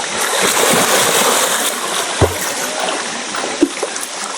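Steady rush of flowing water with splashing, and a couple of brief thumps about two and three and a half seconds in.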